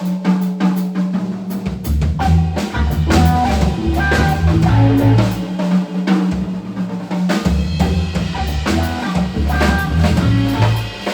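Live blues band playing an instrumental passage with no vocals: a drum kit keeps the beat with snare and bass drum under moving bass notes and melody notes.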